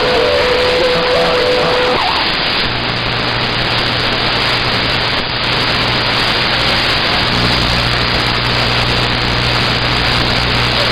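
CB radio receiver hiss between transmissions, loud and steady. A steady whistle-like tone sounds for about the first two seconds. A low hum comes in a few seconds in and grows fuller about halfway through, as of an unmodulated carrier keyed up on the channel.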